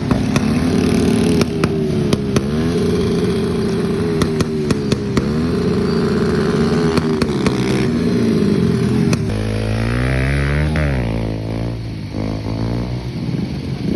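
Dirt bike engine being ridden, revving up and down over and over, with scattered sharp ticks. About nine seconds in the pitch drops low and climbs back up.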